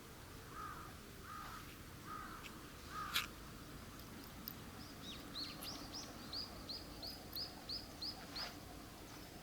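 Birds calling: four short harsh calls in the first three seconds, then a quick run of about ten high, falling notes in the second half. A single sharp click a little after three seconds is the loudest sound.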